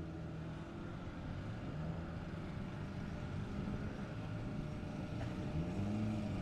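Car engine running, its pitch mostly steady, with one rise and fall in pitch near the end.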